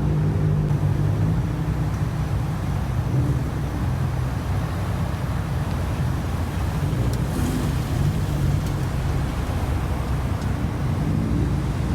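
Car engines idling and running, a steady low hum with a clear engine note in the first couple of seconds that then blends into a general rumble of traffic.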